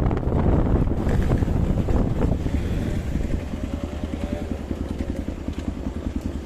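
Hero Xpulse 200 motorcycle's single-cylinder engine running, loud at first, then dropping about three seconds in to a quieter, steady, even beat at low revs.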